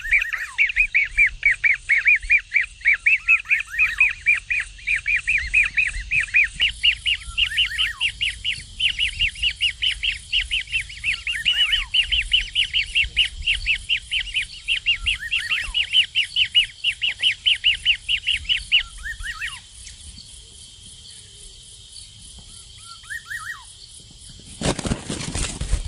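A bird chirping fast and over and over, about four or five high chirps a second, which stops about three-quarters of the way through. A few faint chirps follow, then a short loud rush of noise near the end.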